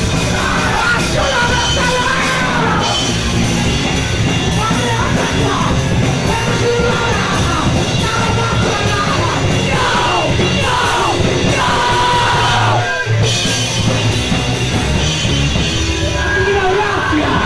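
A punk band playing a 90s-style hardcore song live, with yelled and sung vocals over the full band. There is a brief break in the playing about three-quarters of the way through.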